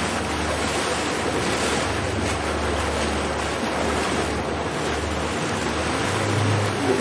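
Steady rushing of wind on the microphone and water around a houseboat, with a low steady hum underneath.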